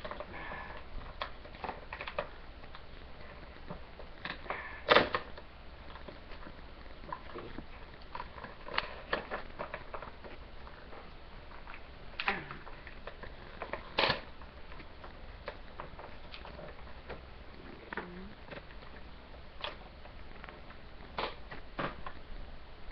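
Plastic blister packaging being handled and pried open: irregular crinkles, clicks and snaps, with a sharp snap about five seconds in and more near the middle.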